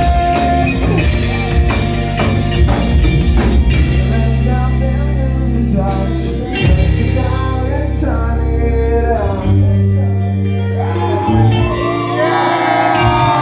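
Live rock band playing, with singing over bass and drums. Near the end the low end drops out, leaving guitar and voice.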